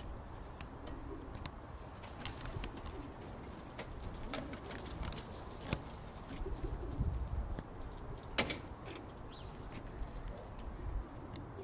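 Racing pigeons cooing, low and soft, with scattered light clicks and one sharper click about eight seconds in.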